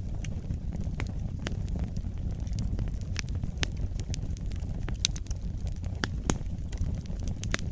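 Wood fire burning in a fireplace: a steady low rumble of the flames with sharp, irregular crackles and pops, several a second.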